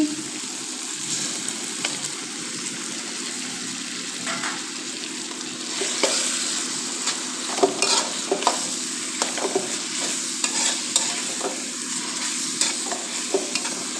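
Chicken mince, green capsicum and tomato sizzling as they fry in oil in a wok. A slotted metal spatula stirs and scrapes against the pan, the scrapes coming more often from about six seconds in as tomato purée is mixed in.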